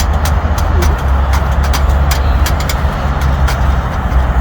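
Wood fire crackling in a small camping fire pit: irregular sharp pops and snaps over a steady low rumble.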